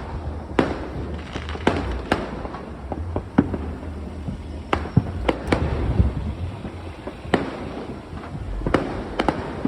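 Fireworks going off: a dozen or more sharp bangs and cracks at irregular intervals, over a low rumble.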